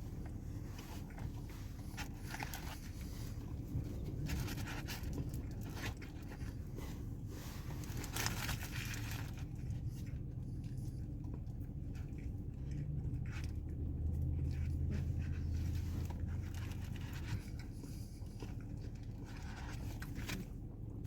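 Someone biting into and chewing a grilled chicken wrap with lettuce, cheese and tortilla, with irregular wet crunches and mouth sounds close to the microphone. A steady low hum runs underneath and grows louder for a few seconds around the middle.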